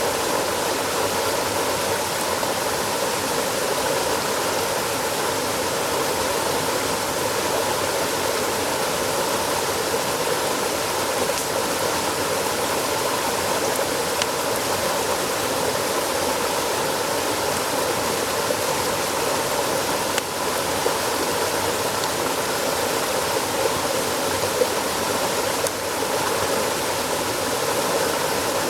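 Steady rushing of flowing water, unbroken throughout, with a few faint ticks.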